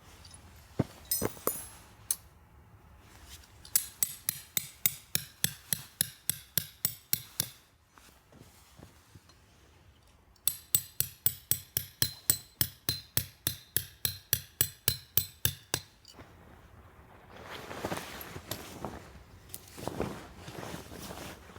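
Hammer driving a metal tent stake into the ground: two runs of quick, evenly spaced ringing strikes, about three to four a second, with a short pause between them. Rustling and crunching near the end.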